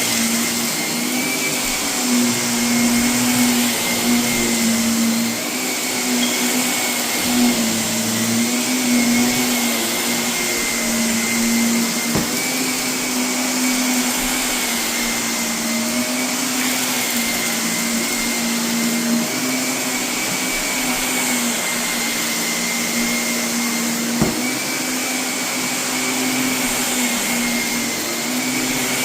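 Vacuum cleaner running steadily on carpet, its motor tone wavering slightly as it is pushed and pulled, with a couple of sharp clicks from debris being sucked up.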